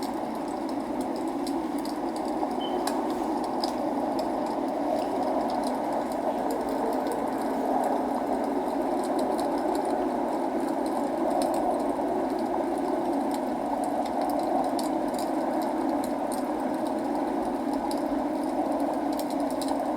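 Log fire in a fireplace crackling with scattered small pops over a steady rushing sound of rain.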